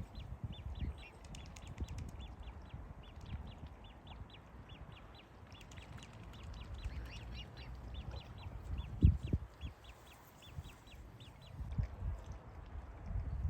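A bird giving a long series of short, high calls, about three a second. Low rumbling runs underneath, with a single thump about nine seconds in.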